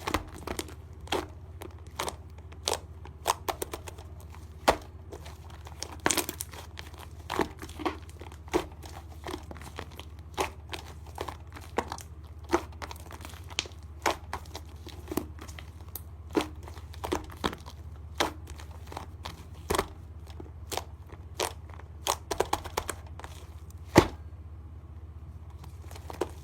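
Slime being pressed and stretched by hand, giving irregular sharp pops and clicks about once or twice a second over a steady low hum.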